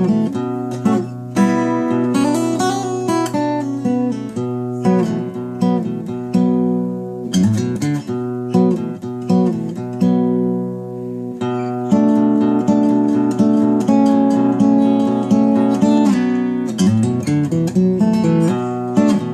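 Acoustic guitar in standard tuning, capoed at the second fret, played solo: picked notes and strums over ringing bass notes.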